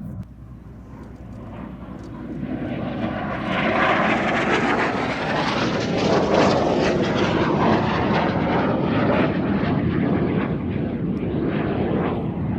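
Jet and piston aircraft flying past in formation, an F-86 Sabre's jet engine with a twin-engined DH.88 Comet: a rushing engine roar that swells over the first few seconds, then stays loud with a slowly shifting sweep in its tone as they pass.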